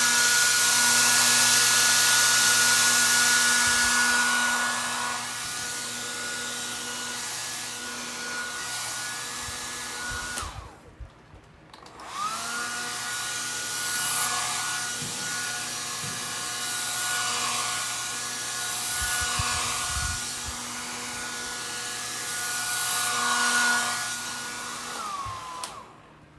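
Hand-held electric hot-air blower running with a steady whine. It is switched off about ten seconds in, winding down, then switched on again a moment later, and it winds down once more near the end.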